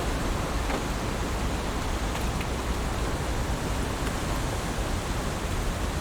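Heavy rain falling steadily, an even dense hiss with a strong low rumble and a few faint sharp drop ticks.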